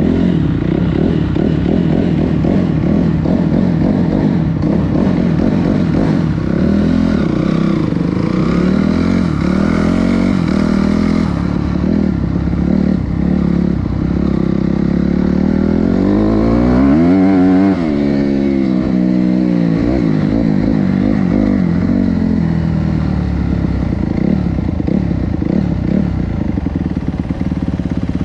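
Honda CRF250R dirt bike's four-stroke single-cylinder engine running and revving, its pitch rising and falling, with one sharp rev up and back down about seventeen seconds in.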